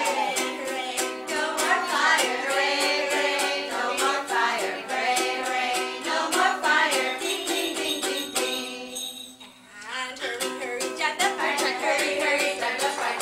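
Ukulele strummed in a steady rhythm with singing over it, a children's song. The playing breaks off briefly about nine seconds in, then picks up again.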